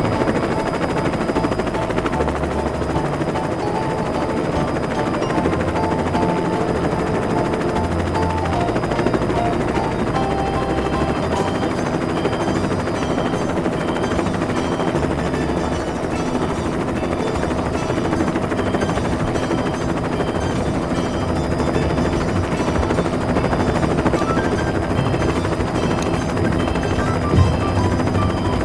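Toy rescue helicopter's electronic rotor chopping sound, a rapid rattle, playing together with a tune.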